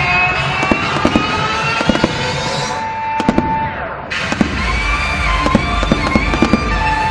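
Aerial fireworks going off in rapid, irregular bangs and crackles, with music playing alongside; the barrage thins briefly a little past the middle.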